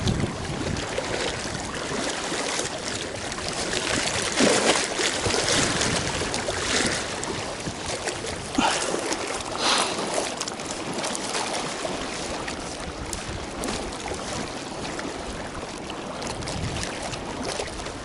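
Water lapping and sloshing close by, with a few brief louder splashes.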